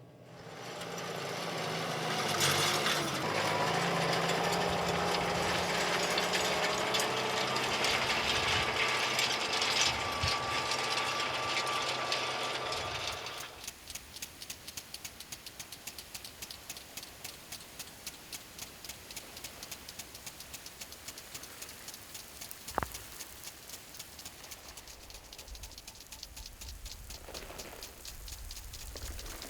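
A motor or machine runs loudly with a steady hum and stops about 13 seconds in. A quieter, even ticking of roughly two beats a second follows, with one sharp click near the end.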